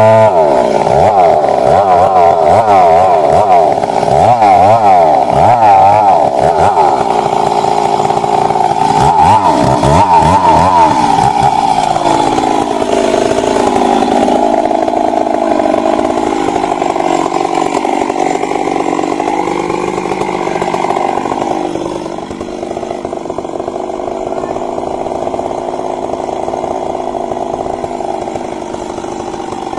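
Stihl MS 382 two-stroke chainsaw running hard, its engine pitch wavering rapidly up and down for the first ten seconds or so, then running steadier and a little quieter after about twenty seconds.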